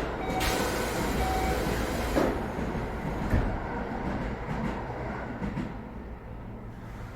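Train doors closing inside a Keio 7000 series commuter car: a hiss with a few short electronic tones, a solid thump about two seconds in and a second knock about a second later. Then the car settles to a low steady hum before departure.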